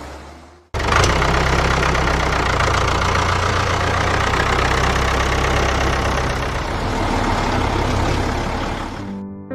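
A vehicle engine running steadily with a deep rumble, cutting in abruptly under a second in and fading out near the end as piano music begins.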